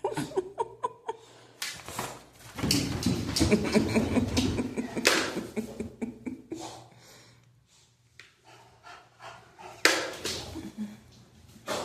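A puppy making small unhappy vocal noises, short whines and grumbles, amid scattered knocks and rustling, with a dense noisy stretch a few seconds in and a sharp knock near the end.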